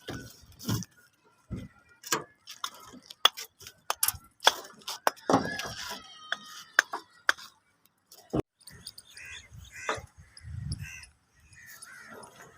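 Irregular sharp clinks and knocks, a few ringing briefly, with a faint voice in the background.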